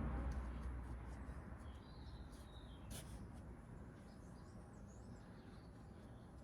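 Faint birds chirping in the background over a low steady hum, with a single sharp click about three seconds in.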